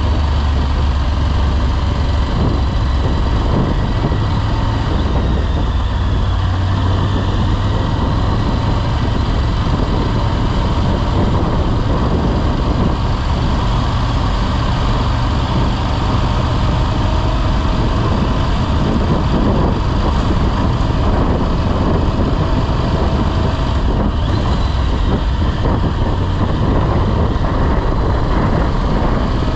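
Motorcycle riding along: its engine running steadily under a constant rushing noise of wind and road, the engine note shifting slightly in pitch.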